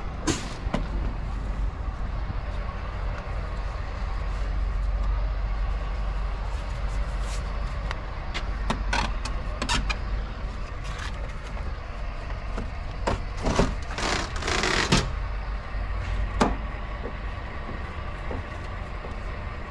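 Heavy truck's diesel engine idling with a steady low rumble, with scattered clicks and knocks and a short hiss about fourteen seconds in.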